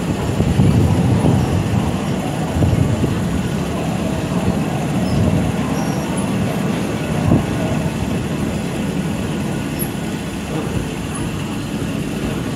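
Passenger train running, a steady rumble and rattle of the carriage on the rails, with a single sharp knock about seven seconds in.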